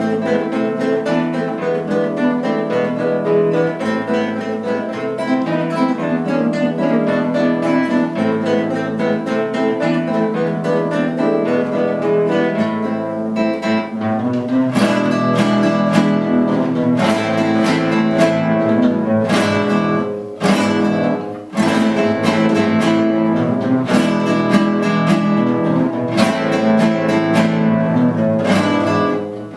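An acoustic guitar ensemble playing an instrumental piece. Plucked melody notes come first; about halfway through it turns louder, with strummed chords, sharp accented strokes and two brief stops.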